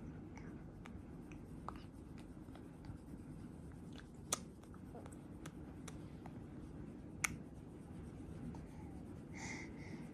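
Quiet room noise with scattered light clicks and two sharper taps, about four and seven seconds in.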